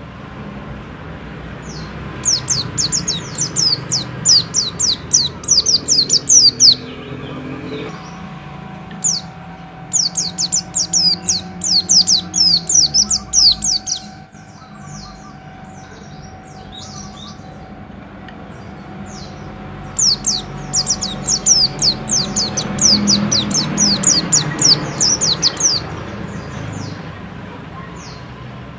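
Pleci (white-eye) singing in three long bouts of rapid, high, sharp notes, several a second: one near the start, one in the middle and one near the end. A low steady hum runs underneath.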